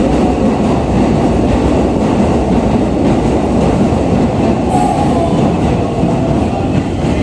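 Keikyu New 1000 series electric train pulling into a station platform and slowing, its wheels rumbling steadily on the rails.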